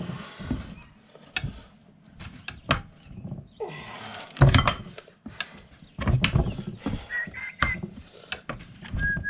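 Tire irons working a motorcycle tire off its rim: irregular metal knocks and clanks with rubber scraping, the loudest knock a little past the middle, and a couple of brief squeaks in the second half.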